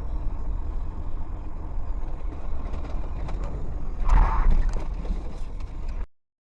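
Car driving, heard from inside the cabin through a dashcam: a steady low road and engine rumble with scattered clicks, and a louder noisy burst about four seconds in.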